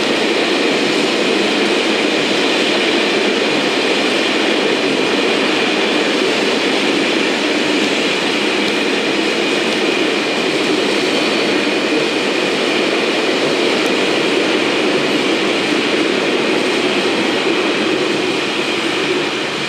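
Train crossing a rail bridge, a loud steady noise of wheels on track that holds throughout and eases slightly near the end.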